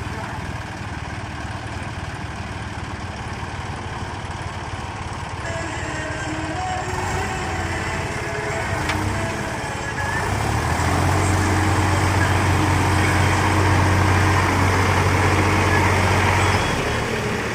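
A heavy vehicle's diesel engine running steadily. About ten seconds in it gets louder and deeper, as if under load, then drops back near the end.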